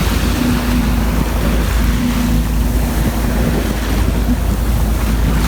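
Sailboat under way with a steady low engine hum, water washing along the hull and wind buffeting the microphone.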